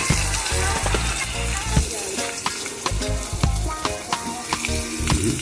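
Pieces of bird frying in hot oil: a steady sizzle with frequent small crackles and pops.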